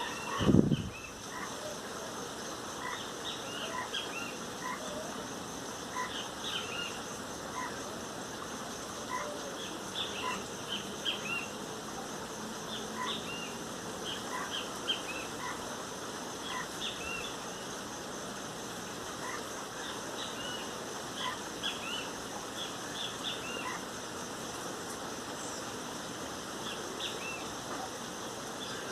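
Great kiskadees calling in short, repeated chirps over a steady high insect buzz. A loud low thump comes about half a second in.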